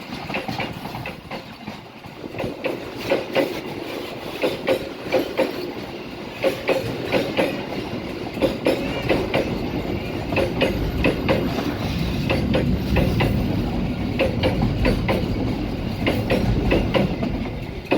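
A train passing close by, its wheels clacking over the rail joints in quick pairs over a steady rumble that grows heavier from about halfway through.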